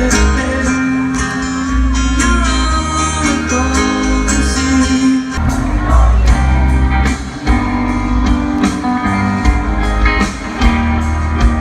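Live rock band playing loud through a concert PA: amplified guitars, bass and drums with a singer, heard from the crowd.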